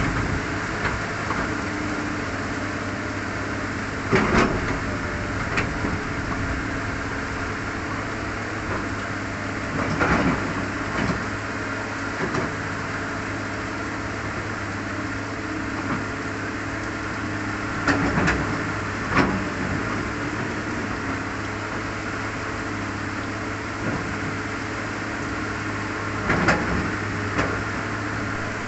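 Heavy rain pouring down steadily, with a steady low hum underneath and a few brief louder knocks scattered through.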